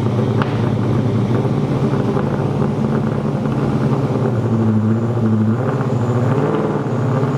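Widebody Chevrolet Camaro's engine running steadily on a dyno, a loud, choppy exhaust note holding about the same pitch throughout, with no rev sweep.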